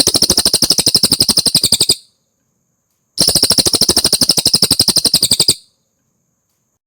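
Cililin bird singing two long, fast trills of evenly repeated high notes, about a dozen notes a second. The first trill ends about two seconds in, and the second starts about a second later.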